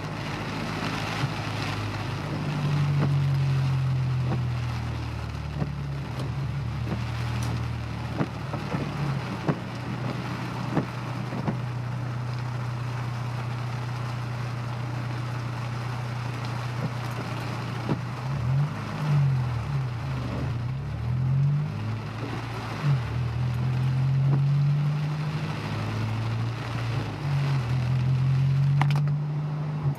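A Honda S2000 driving, its engine note holding steady for long stretches over a steady haze of road noise. The engine pitch rises and falls several times in quick succession about two-thirds of the way through, as revs change.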